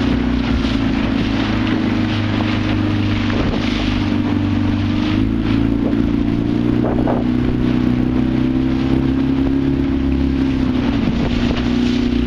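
Motorboat engine running at a steady speed, a constant low hum.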